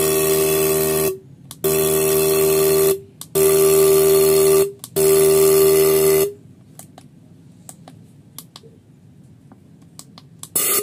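Fuel injectors on an injector cleaning and test machine buzzing as they are pulsed, in four bursts of about a second and a half with short gaps, stopping about six seconds in; a few faint clicks follow.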